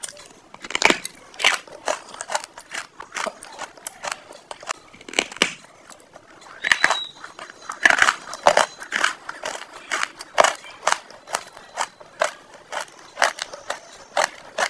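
Close-miked mouth chewing crunchy food: an irregular run of crisp crunches, a few each second.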